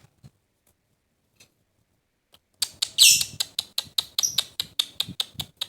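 Lovebird chattering: a fast run of sharp, high chirps, about seven a second, starting just after halfway through, with one louder, longer call near the start of the run.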